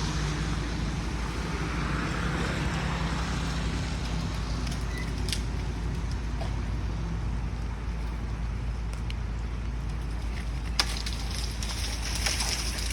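Engine running steadily at a constant low hum, with a few brief sharp clicks about five, eleven and twelve seconds in.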